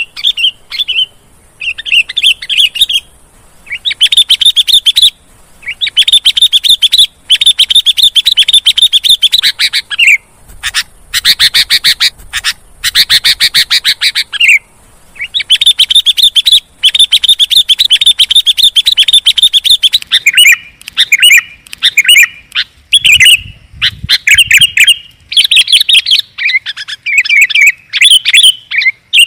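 Sooty-headed bulbul (kutilang) song: rapid chattering phrases of one to three seconds, repeated with short gaps between them.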